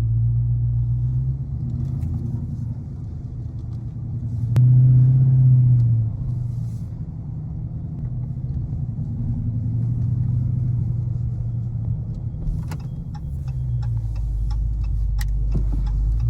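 A car on the move: a steady low engine-and-road rumble that swells for a moment about five seconds in, with a few light clicks near the end.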